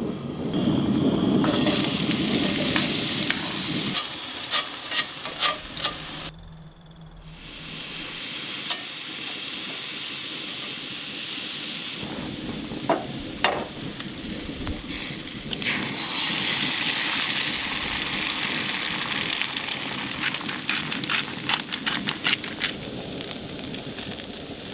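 Bacon, hash browns, eggs and onions sizzling as they fry, with sharp clicks and scrapes from cooking utensils scattered through it. The sizzling drops out briefly about six seconds in, then carries on.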